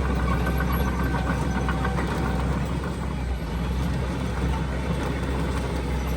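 Diesel engine of heavy earthmoving machinery running steadily, with thin high squeals in the first couple of seconds.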